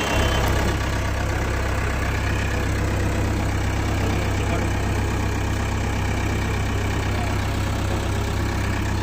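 Engine idling steadily, a constant low drone.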